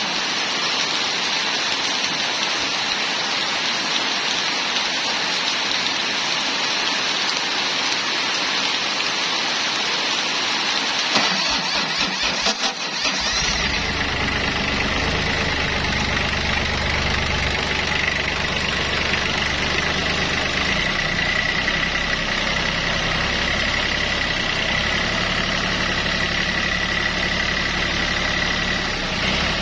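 A steady hiss, then an engine cranks and catches about 11 to 13 seconds in and settles into a steady idle with a high whine.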